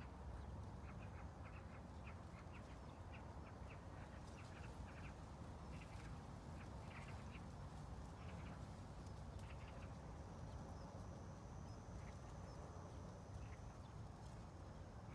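Faint ambience: a low steady rumble with many short animal calls in quick succession, growing sparser in the last third, and a thin high steady tone for a few seconds about two-thirds of the way through.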